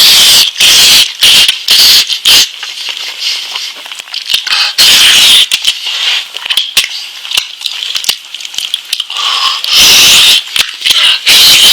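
Close-miked eating of lamb: wet chewing and mouth smacking in loud irregular bursts, with sharp clicks in between.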